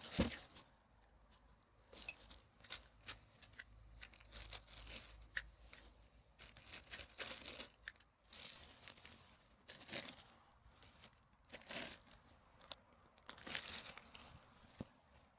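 Irregular rustling, crinkling and crackling of litter being picked up and gathered by hand on the forest floor, in short uneven bursts.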